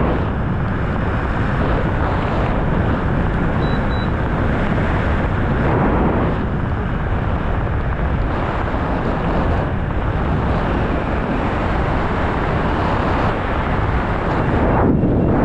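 Steady rush of wind buffeting a skydiver's camera microphone: a dense, even noise with no distinct tones.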